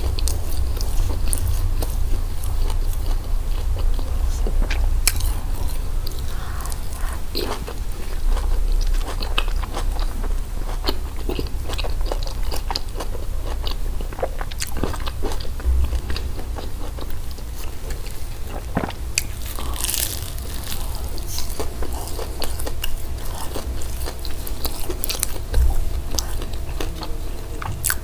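Close-miked chewing and biting of crispy hawawshi, Egyptian meat-stuffed bread, with many short crunches and crackles throughout.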